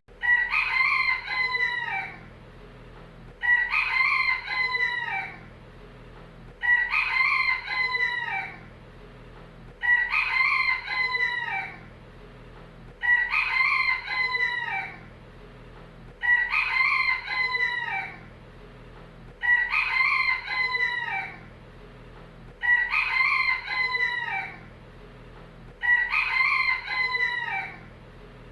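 Rooster crowing: the same cock-a-doodle-doo, about two seconds long and falling in pitch at the end, repeats about nine times at even intervals of roughly three seconds, over a faint steady low background.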